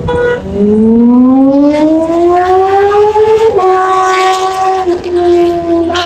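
Kawasaki ZX10R's inline-four engine through a loud SC Project exhaust, revving: the pitch climbs steadily for about three seconds, dips slightly, then holds high until it cuts off near the end.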